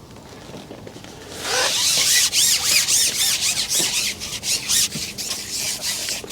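Carbon fishing pole being shipped out, its sections sliding and rubbing with squeaks. The noise starts about a second and a half in as a run of rough, repeated strokes.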